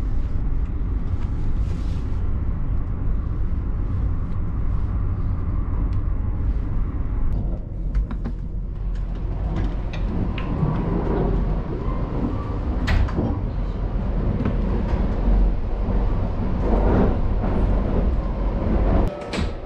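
Steady low running rumble inside a Kintetsu Shimakaze limited express train. Partway through come several clicks and knocks as the private compartment's sliding door is opened and closed.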